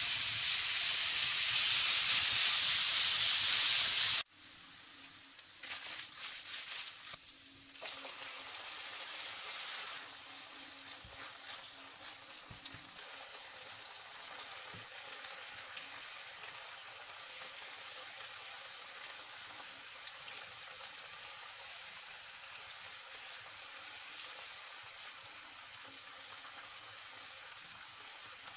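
Minced meat sizzling as it fries in hot oil in a pan. A loud sizzle drops suddenly about four seconds in, and a quieter, steady sizzle follows.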